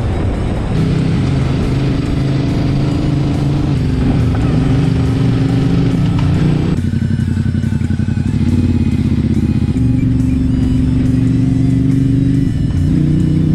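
V-twin cruiser motorcycle engine running steadily on the road, mixed with background music.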